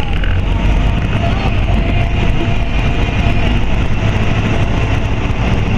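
Semi truck on the move: steady engine and road rumble.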